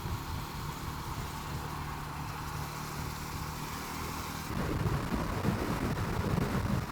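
Motorcycle engine running steadily at cruising speed, with wind noise on the rider's microphone. About four and a half seconds in, the sound turns louder and rougher.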